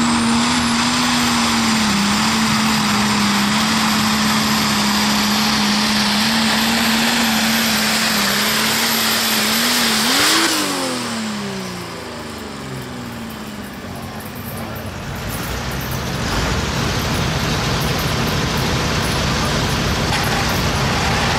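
Super stock pulling tractor's turbocharged diesel running flat out at steady high revs during a pull. About ten seconds in, it revs up briefly and then winds down as the throttle comes off. A steady rushing noise builds again in the last few seconds.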